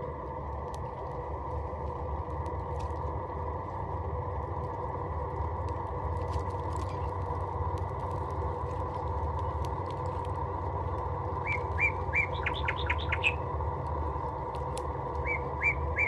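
A bird calling twice, each call a quick run of about half a dozen short chirps, over a steady background hum.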